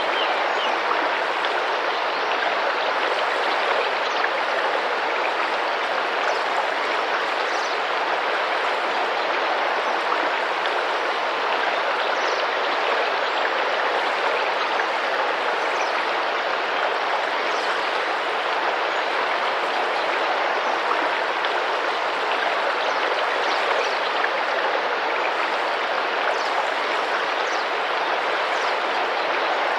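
Tropical river water rushing and splashing steadily. Faint short high bird calls sound now and then.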